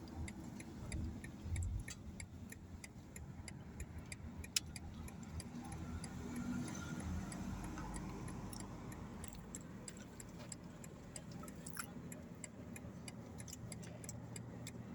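Car's turn-signal indicator ticking steadily inside the cabin, over a low rumble of engine and road noise.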